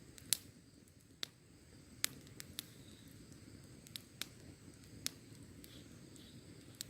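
Wood fire crackling: sharp, irregular pops and snaps, about nine of them and the loudest just after the start, over a low, even hiss of burning.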